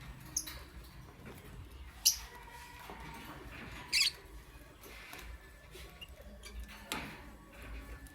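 Lovebirds giving a few short, high, sharp chirps a couple of seconds apart, the loudest about two seconds in and another about four seconds in, over a low steady hum.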